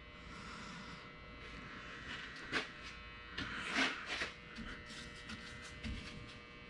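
A steady electrical buzz, with light scrapes about two and a half and four seconds in and a run of small clicks near the end.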